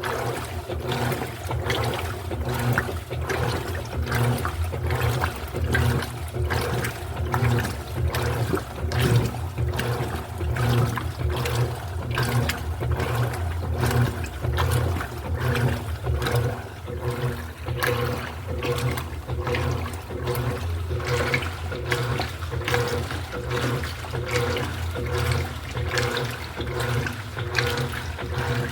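Electrolux LED14 washing machine running its wash cycle: a steady motor hum with water churning and sloshing in the tub in uneven surges.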